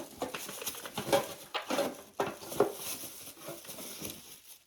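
Small objects being handled and set down on a table: irregular clicks, light knocks and rustling, with a few louder knocks about a second in and again past the middle.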